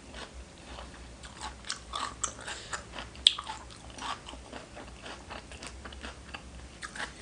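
Close-miked chewing and crunching of mouthfuls of spicy seafood papaya salad and raw vegetables, in irregular crisp bites, with one sharp click about three seconds in.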